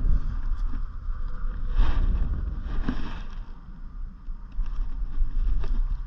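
Wind buffeting the microphone outdoors: an irregular low rumble that flutters throughout, with two brief swells of hiss about two and three seconds in.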